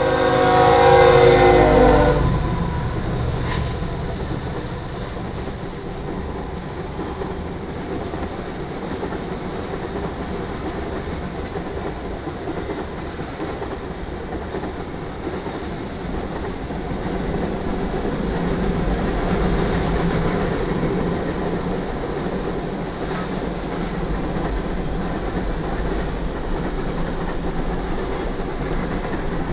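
The lead GE ES44C4 locomotive's air horn sounds several pitches together and cuts off about two seconds in. Then the locomotives and a long string of covered hopper cars roll steadily past over the crossing in a continuous rumble.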